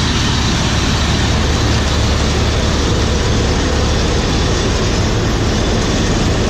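John Deere 3300 combine running steadily under load while cutting wheat: engine and threshing machinery making a loud, even drone.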